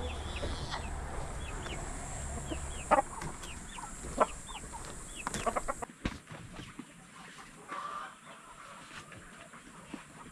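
Poultry calling: a run of short high chirps a few times a second with several louder, sharper clucks over a low hum. Then a sudden drop about six seconds in, after which only occasional quieter calls are heard.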